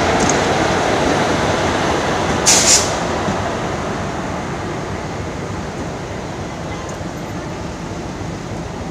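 Indian Railways express train hauled by a WAP-4 electric locomotive pulling out and rolling slowly past: a steady rumble of coaches on the rails that fades as the train draws away. A short, sharp hiss cuts in about two and a half seconds in.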